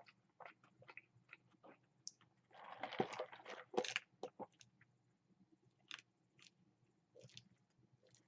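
A person chewing French fries close to the microphone: scattered small mouth clicks, with a louder, noisier stretch about three seconds in.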